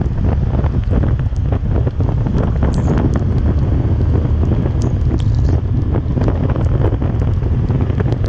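Heavy wind buffeting the microphone: a loud, steady low rumble with many short sharp ticks scattered through it.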